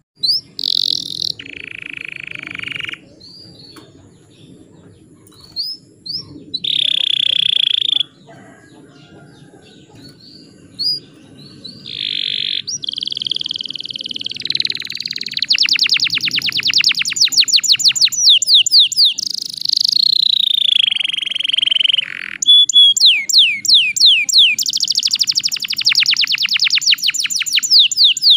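Domestic canary singing: phrases of fast repeated notes, rolling trills and gliding notes with short pauses between them. The song grows louder and fuller in the second half, with long rapid trills.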